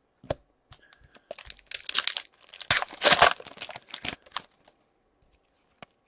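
Thin plastic or foil card packaging crinkling and rustling in a cluster of crackles while trading cards are handled, followed by a few light clicks.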